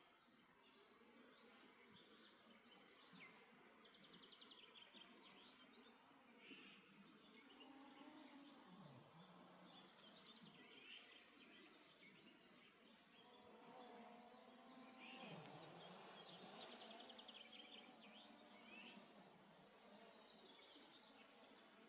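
Faint nature ambience: small songbirds chirping and giving short trills, with a few light crackles from a campfire. Two low falling sounds come about a third and two-thirds of the way through.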